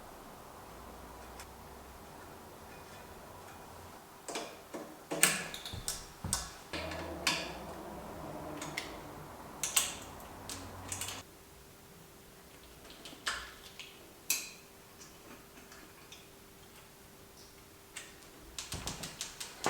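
Hands working on bicycle parts with tools: irregular sharp clicks and knocks, then a quick run of ticks near the end.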